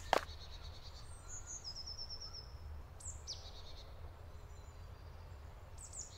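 Songbirds calling in a forest: scattered short high chirps, a quick run of about seven repeated notes, and a falling call about three seconds in, over a faint low rumble. A single sharp click comes right at the start.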